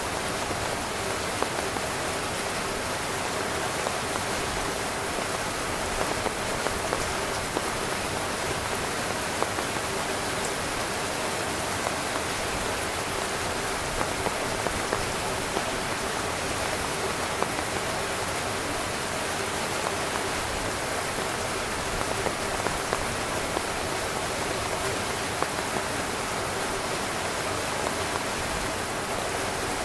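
Heavy rain drumming steadily on a tent's fabric, a continuous hiss dotted with sharp individual drop hits.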